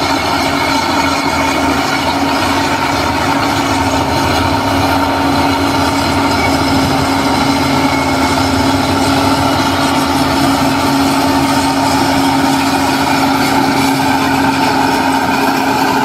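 A heavy earthmoving machine's diesel engine running steadily, with a constant droning tone.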